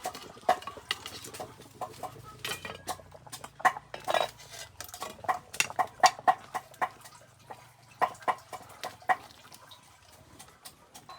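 Kitchen knife chopping and tapping on a wooden chopping board in an uneven run, lighter than steady chopping, with a couple of short scrapes and some clatter of dishes. Chickens cluck now and then.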